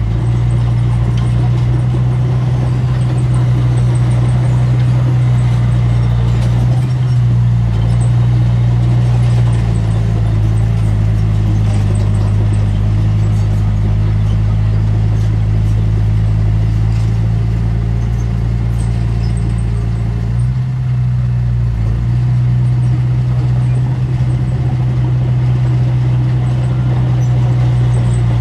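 Diesel engine of heavy earthmoving equipment running steadily at a low pitch, its engine speed shifting slightly about seven seconds in and again around twenty seconds.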